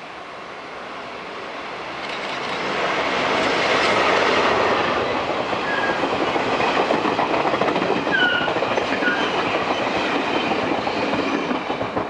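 Taiwan Railways E400-class electric locomotive E411 passing with its train of passenger cars. A rush of noise builds to a peak about four seconds in, then steady wheel clatter over the rail joints runs on, with a few brief wheel squeals.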